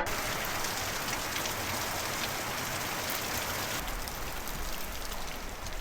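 Steady rain falling, a dense even hiss of drops with scattered sharper drips.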